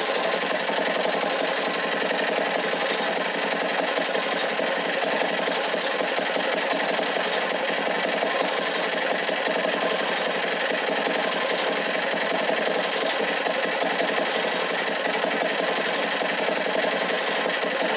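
A machine running steadily, with a fast, even rattle.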